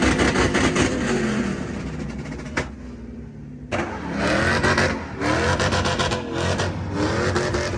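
A truck engine revving repeatedly, its pitch climbing and dropping back several times, with a brief quieter lull about three seconds in.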